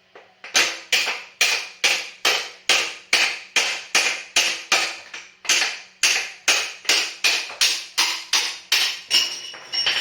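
Hammer striking metal in a steady run of blows, about two and a half a second, typical of driving a stuck motorcycle rear axle out of the wheel hub. The last few strikes leave a clear metallic ring.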